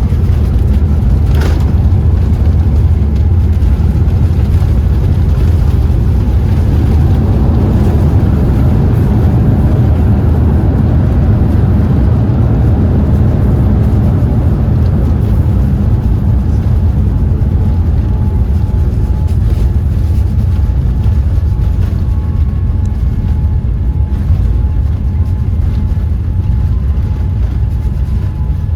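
Cabin noise inside a Boeing 787-8 airliner: a loud, steady low rumble with a rushing noise that swells in the middle and then eases off.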